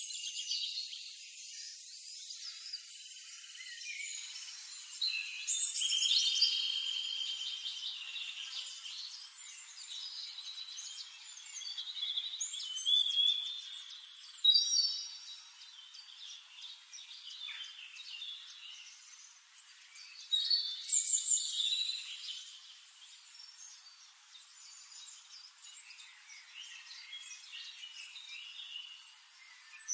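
Birds chirping and trilling, several calls overlapping, with louder bursts about halfway through and again a little later.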